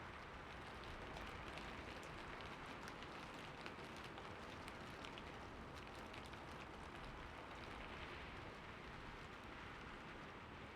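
Heavy rain falling steadily: a continuous hiss speckled with many small, sharp ticks of individual drops.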